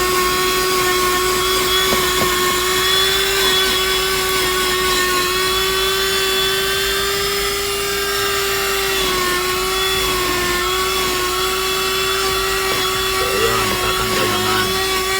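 Handheld car vacuum cleaner running, a steady high motor whine that dips slightly in pitch a few times.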